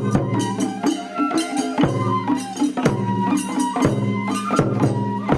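Japanese festival hayashi music of the Hitachi-Otsu Ofune Matsuri: traditional folk ensemble with regular sharp percussion strikes over sustained pitched tones.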